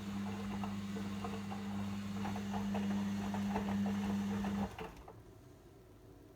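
Logik L712WM23 washing machine running with a steady low hum and light clicking and rattling, which stops abruptly about four and a half seconds in.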